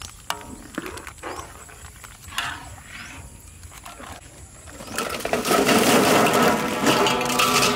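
A metal ladle scrapes and stirs thick chili sauce in an aluminium wok. About five seconds in comes a loud sizzle as blocks of dried instant noodles drop into hot frying oil.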